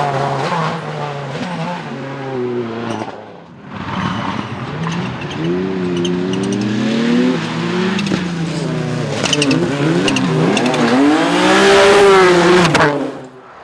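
Rally car engines revving hard, their pitch climbing and falling through gear changes as the cars go past. After a short drop-out about three and a half seconds in, a second car's engine rises to its loudest near the end, with a few sharp pops, then cuts off.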